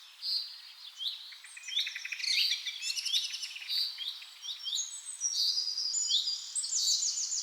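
Several birds singing and calling at once: short sweeping chirps repeated every half second or so, overlapped by fast trills that are densest in the middle of the stretch and again near the end.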